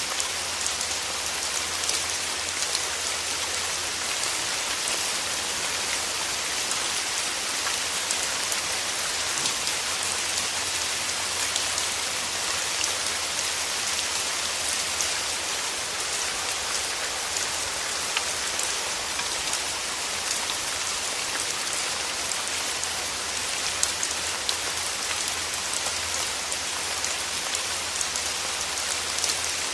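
Steady rain: an even hiss of rainfall with a dense patter of individual drops landing.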